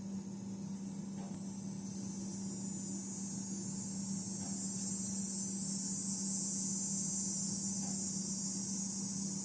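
Insect chorus: a steady high-pitched shrilling that swells louder through the middle, over a constant low hum.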